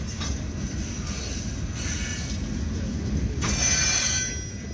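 Freight train of open-top hopper cars rolling past with a steady low rumble, the wheels squealing twice, the louder squeal about three and a half seconds in.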